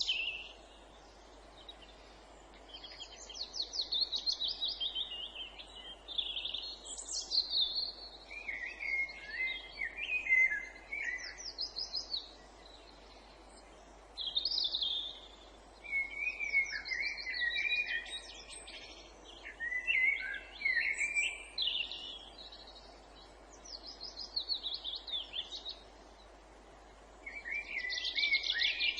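Songbirds singing in the woods: varied, fast-warbled high song phrases a few seconds long, with short pauses between them, over a faint steady hiss.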